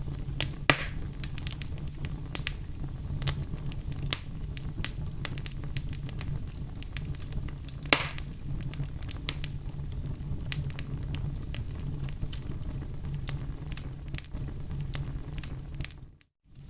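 Campfire crackling: a steady stream of small snaps and crackles over a low, steady rumble, with two louder pops, one just under a second in and one about eight seconds in. The sound cuts out briefly just before the end.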